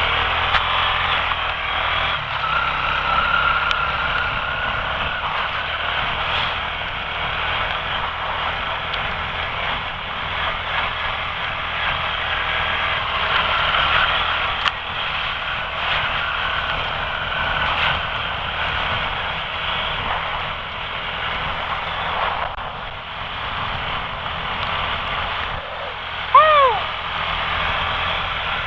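Quad (ATV) engine running while being ridden hard, heard through a dense, steady rush of wind and rain on a helmet-mounted camera's microphone. A short, loud pitched sound stands out near the end.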